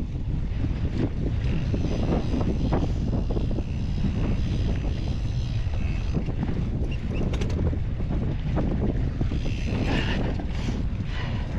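Wind rushing over the microphone while riding a mountain bike down a dirt trail: a steady low rumble broken by brief knocks.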